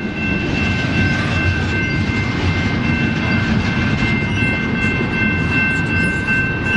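Double-stack container cars of a CPKC freight train rolling through a level crossing with a steady, loud rumble. The crossing bell rings over it as a steady high ringing.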